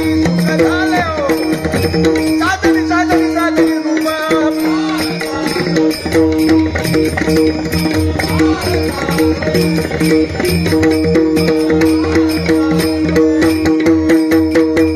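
Bhajan accompaniment playing between sung lines: a held drone with melody over it, a hand drum of the tabla type, and small hand cymbals clashing in a fast, steady rhythm that thickens after the first few seconds.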